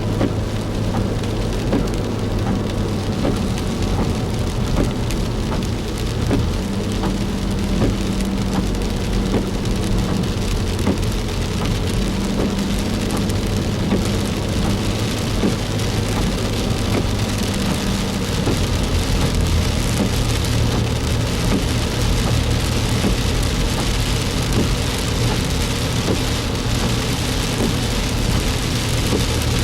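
Heavy rain pelting a moving vehicle, dense patter of drops over a steady low engine and road hum.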